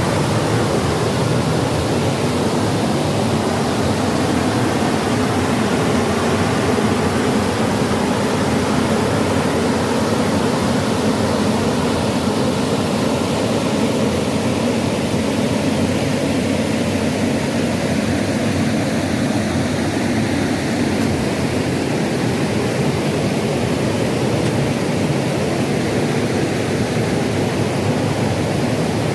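Steady rushing of a stream's flowing water, an even roar with no breaks or separate sounds.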